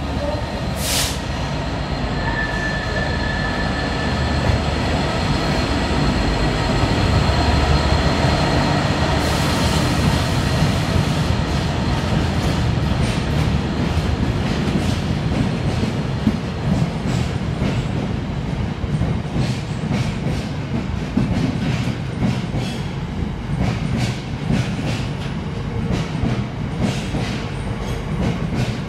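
Freight train hauled by a Class 66 diesel locomotive passing at a station platform. The locomotive's engine rumbles as it comes through. Then a long line of freight wagons rolls by, its wheels clicking rapidly over the rail joints.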